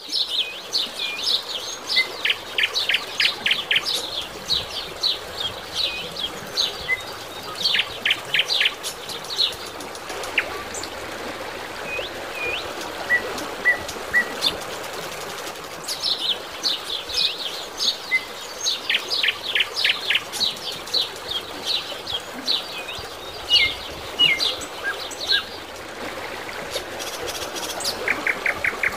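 Small birds chirping and calling again and again, in quick runs of short high notes, over a steady background hiss.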